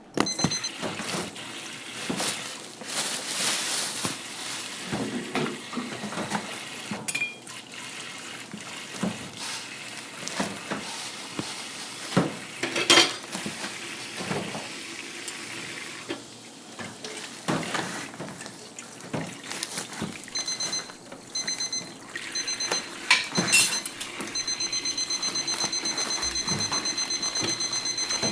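Water running and splashing with clattering knocks, like washing up at a sink. Near the end an electronic alarm starts beeping in short groups, then keeps beeping rapidly.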